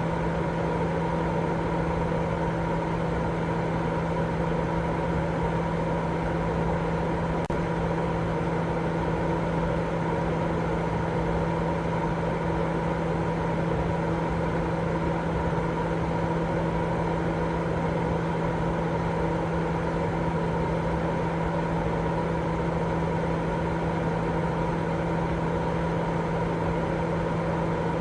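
Continuous baby-sleep white noise: a steady, unchanging hiss, fuller in the low and middle range, with a low hum running through it.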